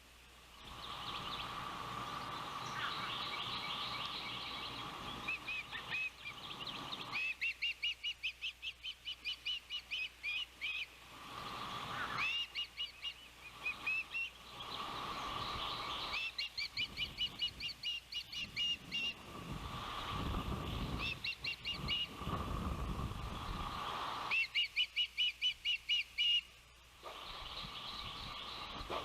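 Ospreys calling: runs of rapid high whistled chirps, about five a second, repeated again and again with short pauses between runs. Wind rumbles on the microphone underneath, strongest a little past the middle.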